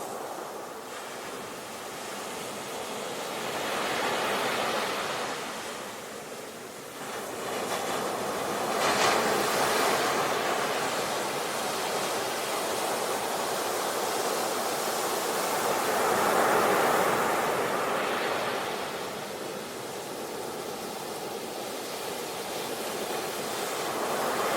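Ocean waves breaking and washing on a shore, the surf swelling and falling back every several seconds.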